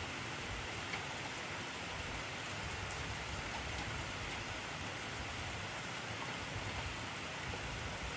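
Heavy rain falling steadily, an even hiss of countless drops with faint individual patters.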